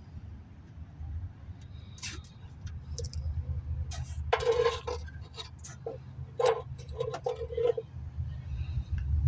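Metal parts and tools clinking and knocking, a dozen or so sharp strikes, several with a short metallic ring, over a steady low hum.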